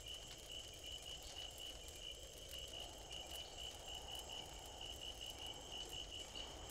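Faint night ambience of chirping insects: one steady, evenly pulsing chirp that does not change, over a low hum.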